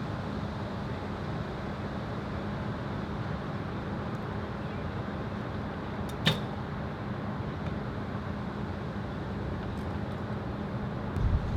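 Wind rushing over the microphone, with a faint steady low hum. About halfway through comes one sharp snap, and near the end a few low thumps of gusts hitting the microphone.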